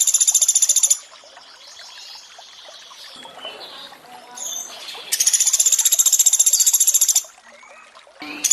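Pelatuk beras woodpecker calling in high, very rapid rattling trills: one trill ends about a second in, another lasts about two seconds in the middle, and a third starts just before the end. Between the trills, water trickles faintly.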